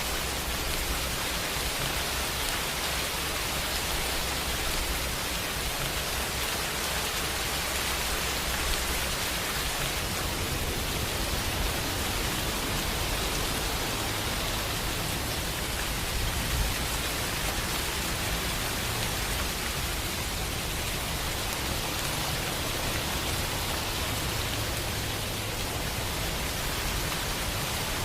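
Steady, dense rainfall hiss. A low rumble underneath grows stronger about a third of the way through.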